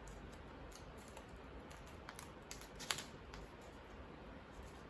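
Sheet of origami paper being folded and pressed flat by hand: faint rustling with a few light crackles, the sharpest about three seconds in.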